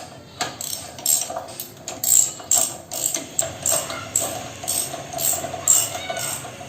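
Ratchet wrench clicking in repeated strokes, about three a second, tightening the two 12 mm bolts of a motorcycle's front brake caliper.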